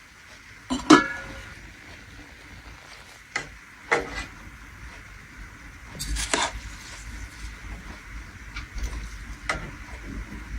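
A cooking utensil knocking and scraping against a pot a handful of times over a faint steady hiss. The first knock, about a second in, rings briefly like metal.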